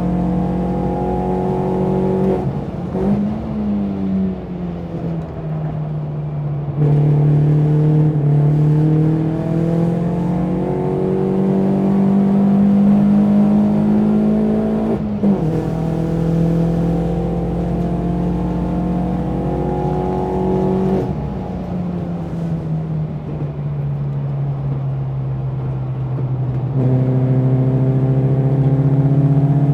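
BMW 116i race car's four-cylinder engine being driven hard on track: its pitch climbs under throttle and falls at gear changes and lifts, about 2 s, 15 s and 21 s in. It comes back on full throttle louder about 7 s and 27 s in.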